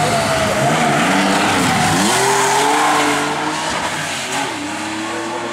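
Porsche 911 rally car's air-cooled flat-six under hard throttle; the engine note drops about two seconds in, then climbs again as the car accelerates away, and it grows quieter in the second half.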